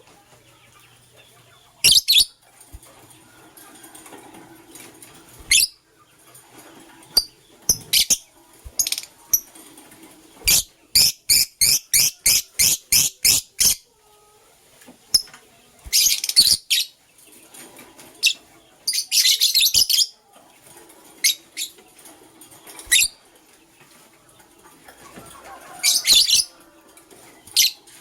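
Lovebirds calling with sharp, high chirps. Midway there is a fast run of about ten chirps at roughly three a second. Later come two longer, rougher bursts about a second each.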